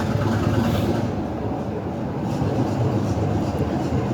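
Heritage train climbing an incline, heard from on board: the train runs with a steady, low, even noise.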